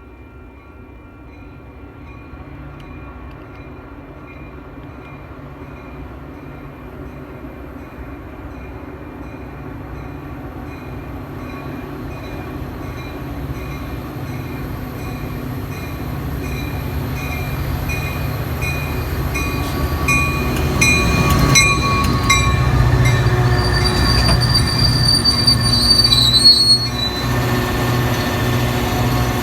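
Metra commuter train approaching, growing steadily louder, its diesel locomotive engine rising to a strong hum, with a bell ringing in an even rhythm. High wheel squeal comes near the end, then the sound drops suddenly.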